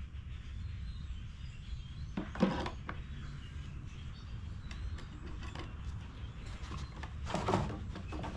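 Clicks and clatter of small parts and hand tools being handled during bench reassembly of a small engine, with two louder bursts about two seconds in and about seven seconds in, over a steady low hum.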